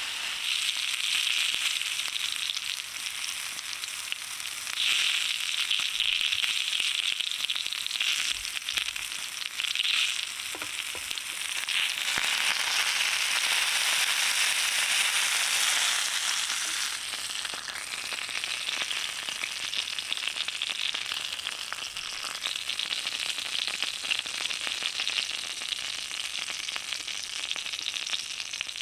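Lamb sizzling as it fries over a small campfire: a dense, steady hiss full of fine crackles and spits. It swells louder through the middle and settles a little near the end.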